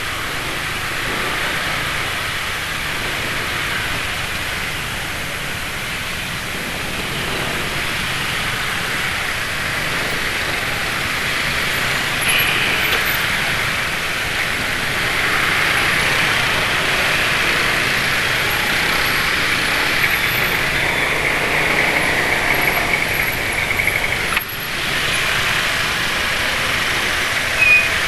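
Motorcycles running in road traffic, a steady rush of engine and road noise, with a short high tone about twelve seconds in and a couple more near the end.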